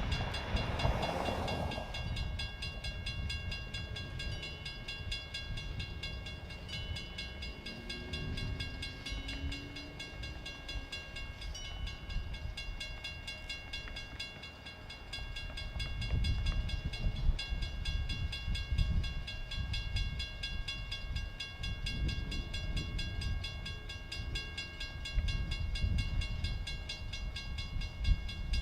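Electric railway train running, a low uneven rumble that grows louder about halfway through.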